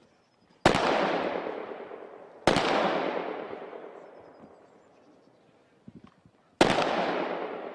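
Three single shots from a Heckler & Koch G36 5.56 mm assault rifle fired in semi-automatic, about two and four seconds apart, each sharp crack followed by a long echoing decay.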